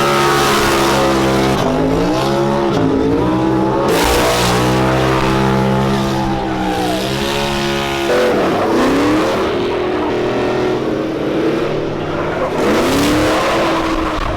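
Truck engine revving hard in a burnout, its pitch repeatedly rising and falling, over a dense hiss of spinning tyres.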